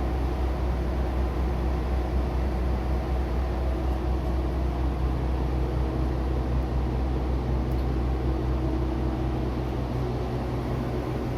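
Diesel railcar engine running steadily: an even low drone with a steady hum and no change in pitch.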